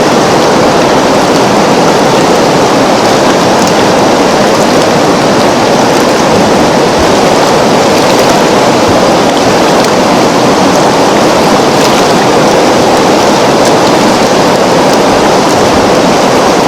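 River water flowing in a steady, unbroken wash of noise, with faint scattered splashing ticks on top.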